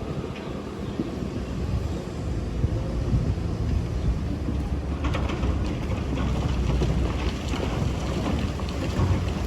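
Excavator's diesel engine running steadily with a low rumble; about halfway through, a scraping, rattling noise joins it, as of the bucket working in sand.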